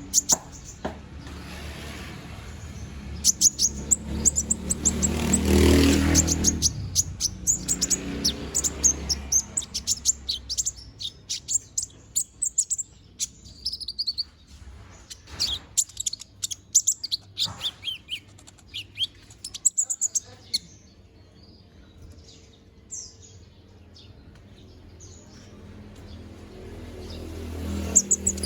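A sunbird (the konin kept by Indonesian bird hobbyists) singing a long run of rapid, high-pitched chirps and twitters. The notes thin out past the middle, then come thick again near the end. A low rumble runs under the song in the first third.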